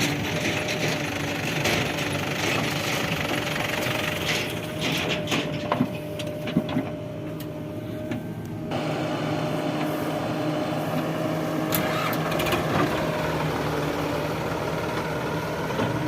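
Diesel engine of a JCB 3DX backhoe loader running steadily, with a few sharp metallic knocks now and then.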